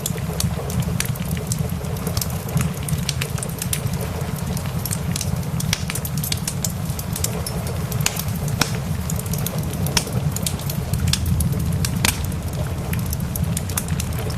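Wood fire crackling, with frequent irregular sharp pops, over a steady low rumble and a hiss of rain.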